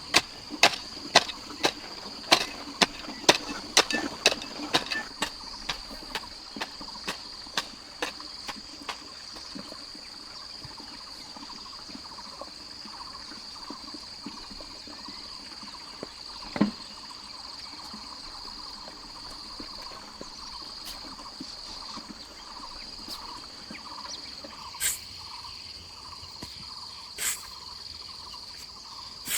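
Repeated sharp blows of a hand tool, about two a second, growing fainter and stopping around nine seconds in, then a few single knocks later on. A steady high insect drone runs underneath throughout.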